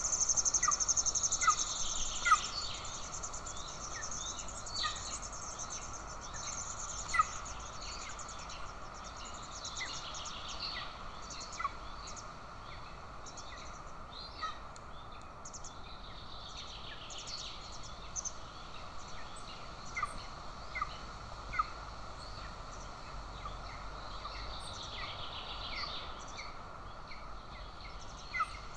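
Bird calls at a golden eagle nest: short, sharp, high chirps repeated, several a second at first, then one every second or two. A steady high insect buzz runs underneath and swells louder now and then.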